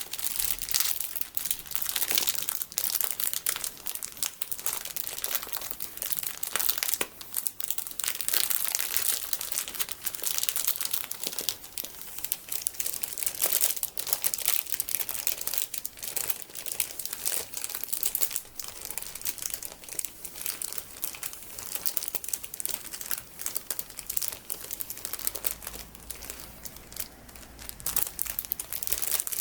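Plastic packaging holding colourful sticky beads being crinkled and squeezed, a dense, irregular run of crackles and rustles.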